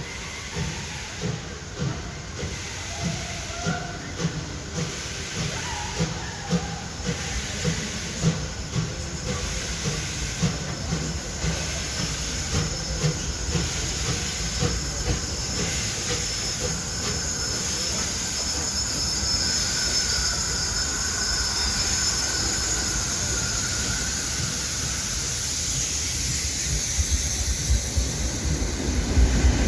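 DR class 35.10 steam locomotive 35 1097-1 working a train: its exhaust chuffs come about once a second at first, then quicken and blur into a continuous rumble with steam hiss as it draws closer and grows louder.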